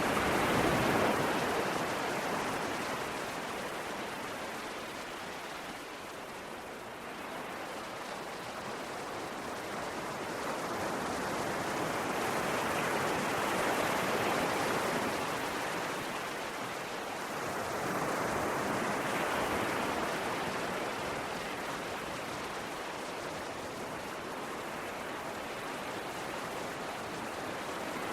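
Ocean surf: a steady rush of waves breaking and washing in, swelling louder and easing off several times.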